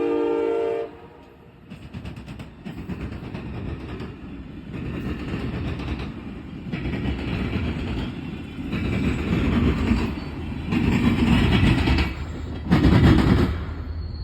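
An Amtrak Wolverine passenger train's horn chord cuts off about a second in, then the train passes with its wheels clattering over the rails. The rumble rises and falls in surges about every two seconds, loudest near the end.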